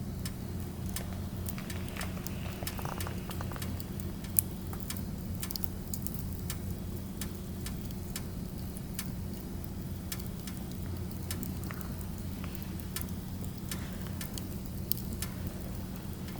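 Firewood burning, crackling with a steady stream of small snaps and one louder pop about four seconds in, over a steady low hum.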